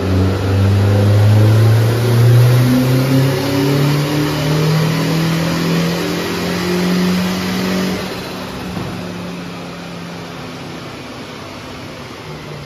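Turbocharged 8-valve four-cylinder engine of an MK3 Golf GTI pulling hard, its pitch rising steadily through the revs for about eight seconds. It then eases off and the sound falls quieter.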